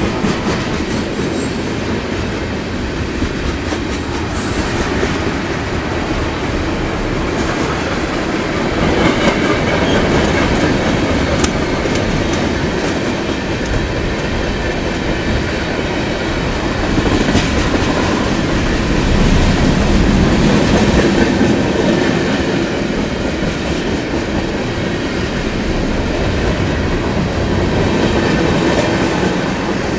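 Train cars rolling steadily past close by, wheels clicking over the rail joints, with thin high squeals from the wheels in the first few seconds.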